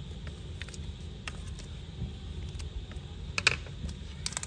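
Light clicks and taps of metal Zippo lighters being handled, with a brighter cluster of clicks about three and a half seconds in, over a steady low hum.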